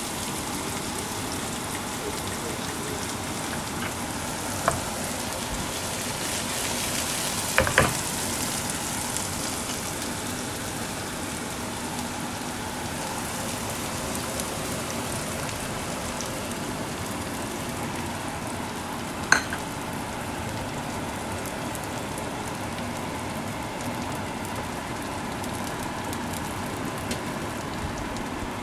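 Steady sizzle of sliced bitter melon and beaten egg frying in oil in a pan, with a few short, sharp knocks.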